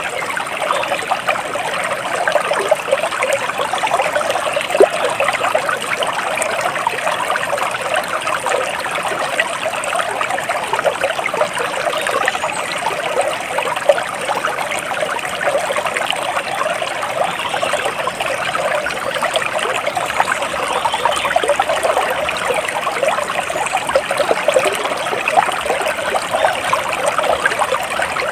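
Shallow stream water trickling and babbling steadily over stones.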